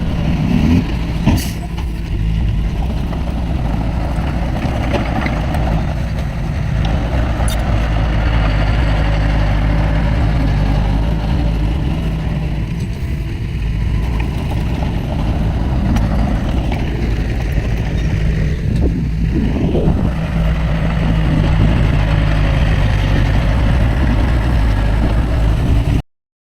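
Heavy diesel earthmoving machinery running steadily, a low engine hum with a couple of sharp clicks in the first two seconds, cutting off suddenly at the end.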